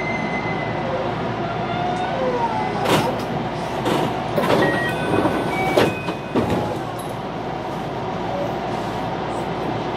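Running noise of an electric commuter train heard from inside the carriage: a steady rumble with faint squealing tones drifting in pitch, and a run of sharp clacks between about three and six and a half seconds in, after which it settles a little quieter.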